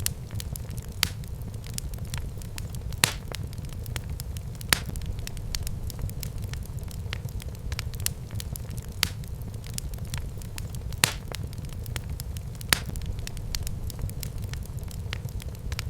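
Wood fire burning in a fireplace: a steady low rumble of flames with frequent small crackles and sharp single pops every second or two.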